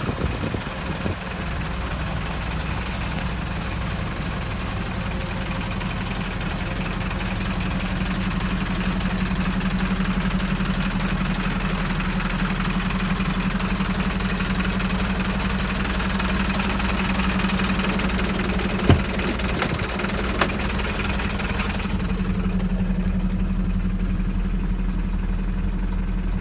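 Engine idling steadily, with two sharp clicks about two-thirds of the way through; the higher hiss falls away a few seconds before the end.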